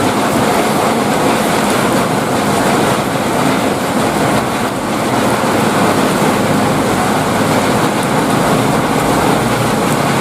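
Heavy rain pouring steadily, with a low rumble coming up in the second half.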